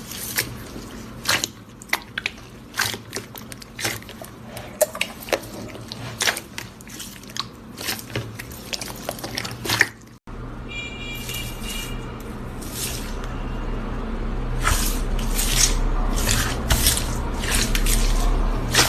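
Slime being squished and pressed by hand, giving a run of sticky wet clicks and pops. About halfway through it cuts to another slime clip, where the popping continues over a steadier squelching noise that slowly grows louder.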